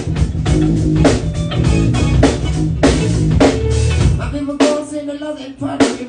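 Live band playing in a sound check: drum kit with bass drum and rimshots, guitar and a bass line. About four seconds in the bass drops out, leaving drums and guitar.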